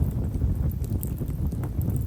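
Japanese stewartia (himeshara) firewood burning in a campfire, giving scattered small, fine crackles over a steady low rumble.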